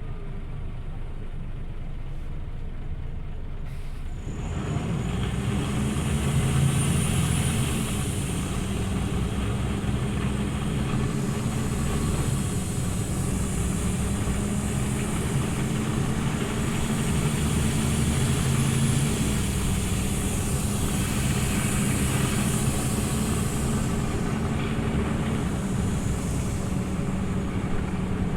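Scania OmniLink CL94UB city bus driving, heard from on board: quieter for the first few seconds, then the engine and drivetrain grow louder about four seconds in as the bus pulls away, and run steadily on. A faint high whine rises and falls twice.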